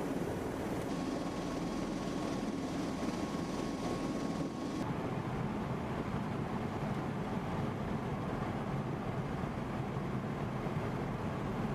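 Steady, dense rumble of an MV-22 Osprey tiltrotor running close by, with a thin steady whine for the first few seconds; the upper hiss drops off suddenly about five seconds in.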